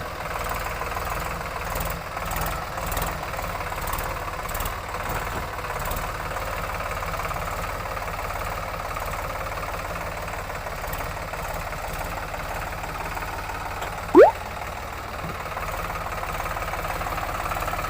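Tractor diesel engine running steadily. About fourteen seconds in, a brief loud rising whistle-like tone cuts across it.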